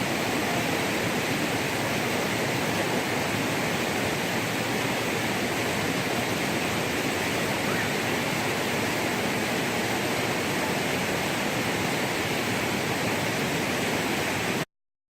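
Steady rushing water, an even hiss without change, cutting off suddenly near the end.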